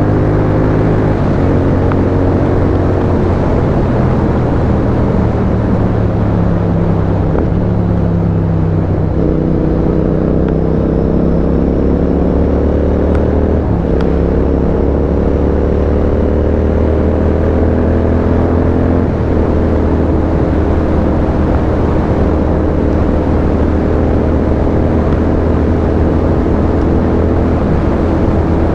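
Royal Enfield Continental GT 650's parallel-twin engine through a custom aftermarket exhaust, running under way as the motorcycle is ridden. The engine note holds or climbs slowly, then changes pitch in steps several times as gears are shifted, over a steady rush of wind and road noise.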